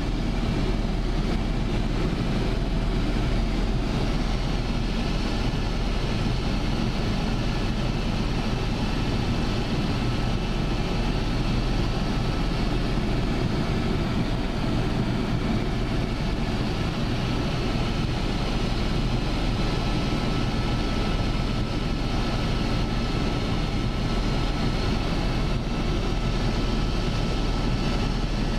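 Steady, unbroken engine drone with a strong deep hum, with no change in level throughout.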